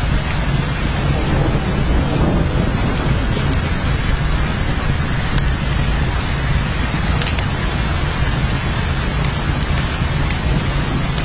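Steady heavy rain, with a constant low rumble underneath and scattered sharp drop ticks.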